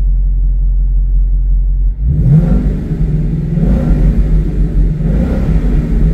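Ford Mustang V8 with its exhaust valves closed, heard from inside the cabin with the windows down. It drones steadily at first, then about two seconds in the engine note rises as the car accelerates, in a few surges.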